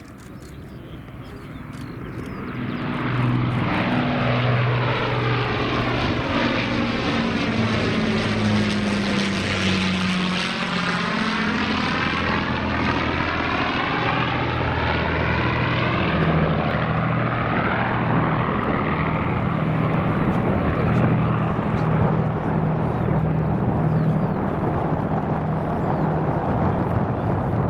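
The four Rolls-Royce Merlin V12 engines of an Avro Lancaster bomber flying low overhead. The drone builds over the first three seconds, drops in pitch as the aircraft passes about ten seconds in, and stays loud as it draws away.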